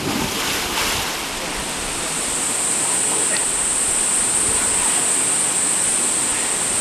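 Steady rush of a waterfall pouring into a creek pool, with a steady high-pitched whine over it from about a second and a half in.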